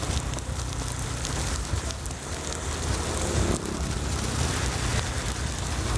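Rain and wind noise on the camera microphone while riding a Yamaha N-MAX scooter in the rain, with the scooter's engine humming low underneath.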